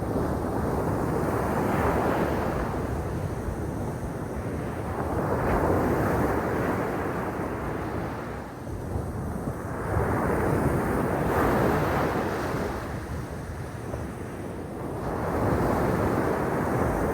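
Sea waves breaking on the shore, swelling and fading about every four to five seconds, with some wind on the microphone.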